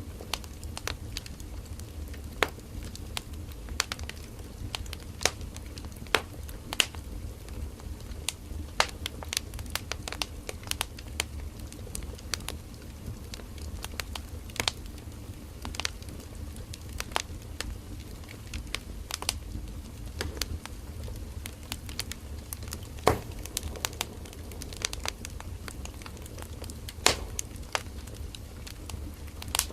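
Firewood burning in a campfire: a steady low rumble of flames with frequent irregular sharp crackles and pops, a couple of louder pops late on.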